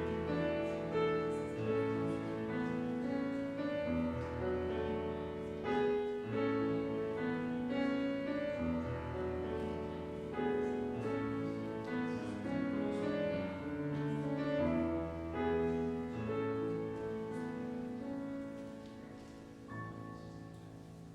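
Instrumental piano music: slow chords over long-held bass notes, dying away near the end.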